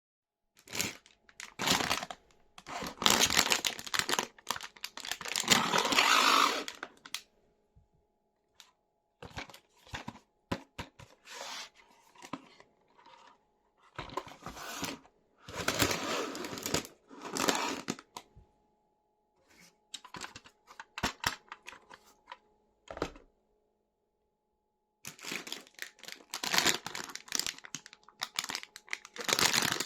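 Toy packaging being torn open and crinkled by hand, in bursts of a second or two separated by pauses, with small clicks and handling noises.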